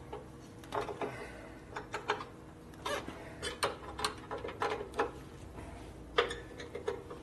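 Hand tools working the bolts and screws on a motorcycle during assembly: a string of irregular metallic clicks and clinks, like a ratchet or wrench being worked and tightened.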